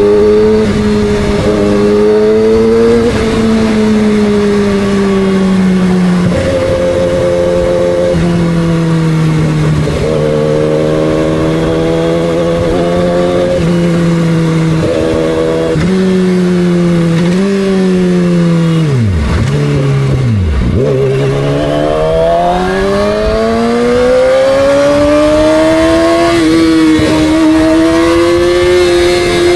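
2006 Yamaha R6's inline-four engine running under way, its pitch stepping up and down with throttle and gear changes. It drops in revs about two-thirds of the way through, then climbs steadily over the last several seconds as the bike accelerates.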